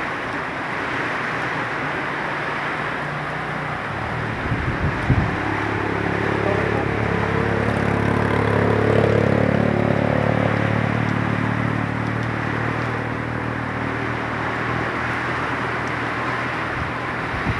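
Heavy rain and wind making a loud, steady hiss. A motor engine hum comes in about five seconds in, grows loudest around nine seconds, then eases off.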